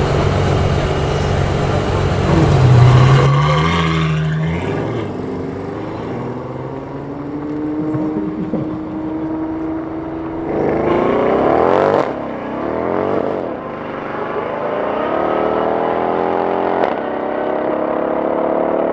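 Ferrari F12 Berlinetta's V12 with a tuned Novitec exhaust running and accelerating hard, its pitch climbing in several rising pulls. One pull cuts off sharply about twelve seconds in.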